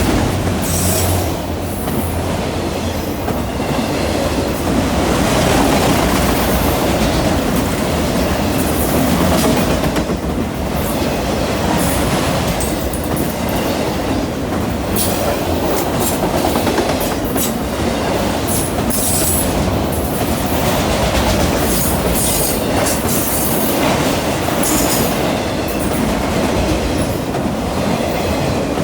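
CN freight train rolling steadily past at close range, its wheels clicking rhythmically over rail joints and the crossing.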